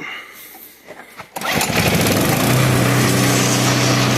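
Craftsman snowblower's Tecumseh small engine starting about a second and a half in and then running steadily, on a carburetor freshly cleaned after years of sitting on stale fuel.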